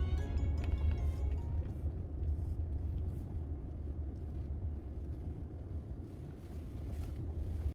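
A steady low rumble with a faint hiss above it. A music track's last notes fade out in the first second.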